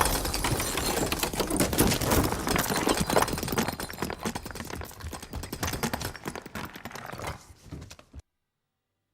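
Rapid, dense clattering and knocking, many clicks close together over a noisy wash. It fades over the last few seconds and stops abruptly about eight seconds in.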